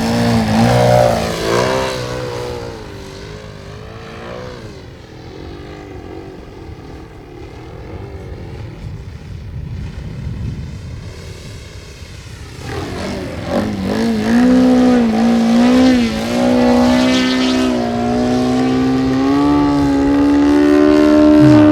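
Radio-controlled model airplane's motor and propeller in flight, the pitch wavering up and down as it passes. It fades for several seconds, grows louder again about halfway through, and holds a steadier, rising note near the end.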